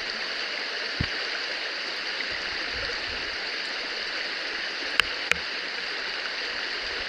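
River water rushing steadily. A low thump about a second in and two sharp clicks about five seconds in.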